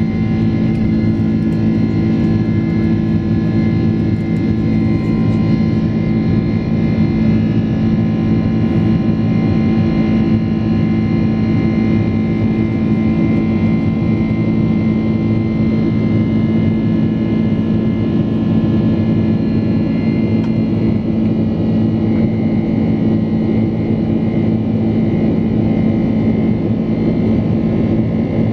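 Steady cabin drone of a Boeing 767-400ER in flight: jet engine and airflow noise with a constant low hum running through it.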